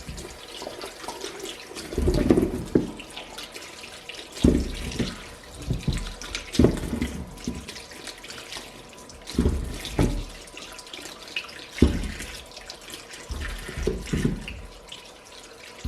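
Water from a tap running into a sink as new potatoes are washed by hand, with irregular splashing surges every second or two.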